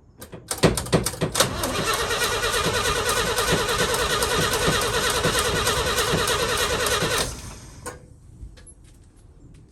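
1966 International Harvester BG 241 inline-six being cranked over by its starter for about seven seconds. The starter whirs under a steady, even rhythm of compression strokes, and the engine does not catch before the starter cuts off abruptly. The engine turns over but won't fire, which the owner puts down to no ignition spark.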